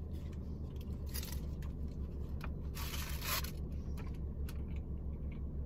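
Chewing a mouthful of lamb shawarma, with a few short crinkling rustles of its aluminium foil wrap, the longest about three seconds in, over a steady low hum.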